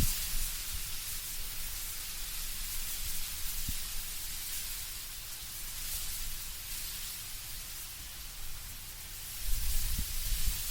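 Wind blowing through autumn trees, leaves rustling in a steady high hiss, with a low gusty rumble that swells again near the end.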